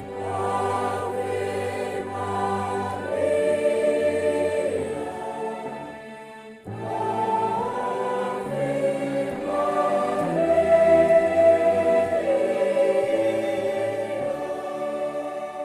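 Church choir singing in several parts, with a short break about six and a half seconds in before the next phrase begins.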